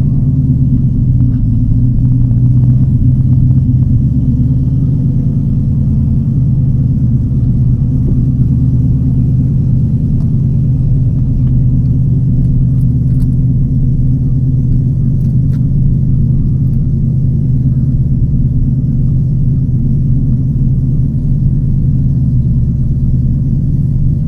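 TVR Chimaera's 4650 cc Rover-based V8, fitted with a race cam and with its pre-cats removed, running steadily on the road, heard from inside the cabin as a low, steady drone.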